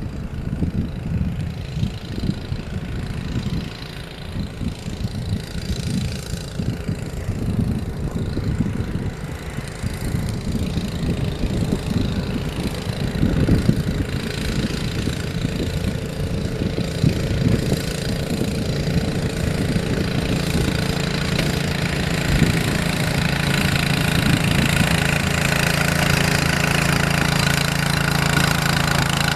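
Engine of a snow-clearing machine running, uneven at first, then settling into a steady, louder drone in the second half.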